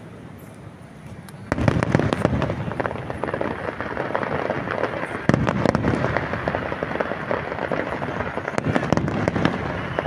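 Aerial fireworks display: booming shell bursts over a dense, continuous crackle. A loud burst comes in about a second and a half in, with another strong one about five seconds in.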